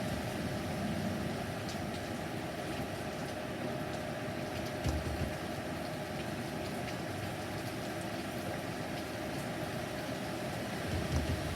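Steady rain and wind of a heavy thunderstorm, with two brief low rumbles, one about five seconds in and one near the end.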